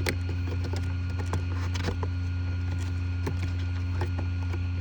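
Blower fan of an airblown Halloween inflatable running with a steady low hum, with scattered light clicks and taps throughout.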